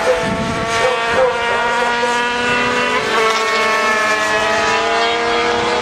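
Several racing motorcycle engines at high revs, their notes overlapping and shifting slowly up and down in pitch.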